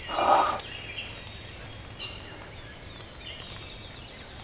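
Songbirds calling in spring woods: short high chirps about once a second over a steady outdoor hiss, with a louder, lower call lasting about half a second right at the start.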